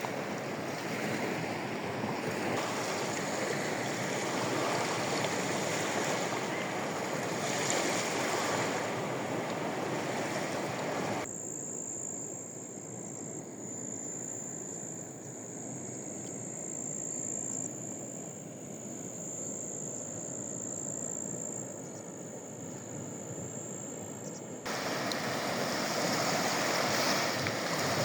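Sea waves breaking and washing on a shore. About eleven seconds in it cuts to a quieter, softer wash with a steady high-pitched whine over it. The louder surf returns a few seconds before the end.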